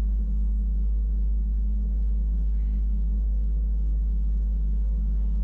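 Steady low rumble and hum of a Wengernalp Railway electric rack train running, heard from inside the passenger car.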